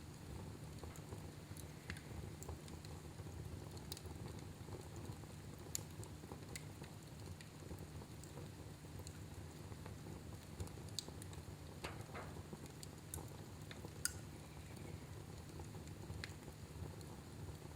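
Fire burning in a fireplace, crackling faintly with scattered irregular pops over a low steady rumble. One sharper pop stands out about two thirds of the way through.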